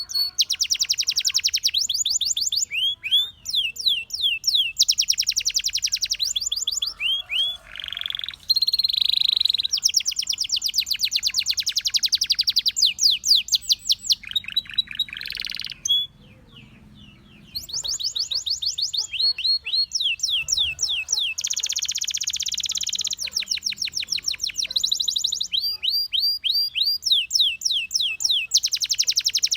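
Domestic canary singing: rapid trills of the same sweeping high note repeated many times a second, switching to a new trill every second or two, with a short pause about halfway through.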